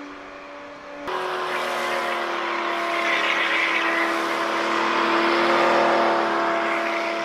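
2019 Ford Raptor's twin-turbo 3.5-litre EcoBoost V6 running through its modified exhaust, held at steady raised revs with a droning tone. The tone steps up about a second in and swells slightly in the middle.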